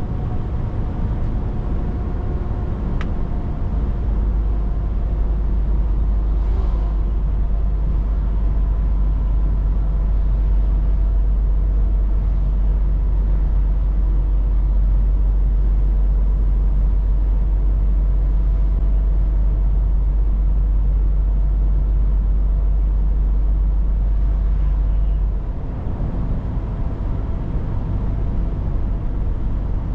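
Scania 500 S truck driving at steady speed, with a continuous mix of engine and road noise. A deep low rumble comes in a few seconds in and falls away about 25 seconds in.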